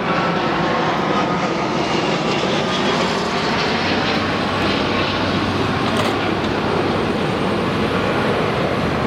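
Steady, loud vehicle noise, an even roar with no single event standing out.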